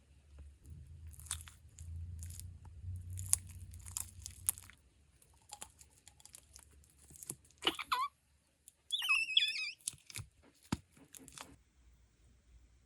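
Slime being squeezed and kneaded by hand: a run of crackling, popping clicks, then two short, wobbly squeaky squeals just past the middle, and a few last pops before it stops.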